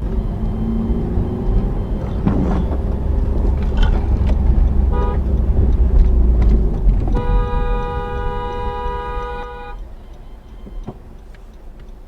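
Vehicle road noise with a low rumble, a short car-horn toot about five seconds in, then a long steady horn blast of about two and a half seconds starting around seven seconds in, after which the rumble dies down.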